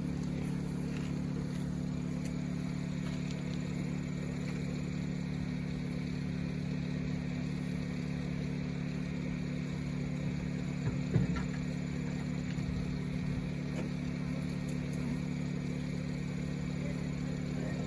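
Steady mechanical hum of an engine or motor running at an even speed. A brief knock sounds about eleven seconds in.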